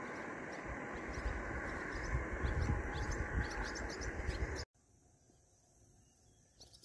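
Small birds chirping in quick short calls over a steady rushing outdoor noise with low rumbles. About four and a half seconds in, the rushing noise cuts off abruptly, leaving a quiet background with a few faint chirps.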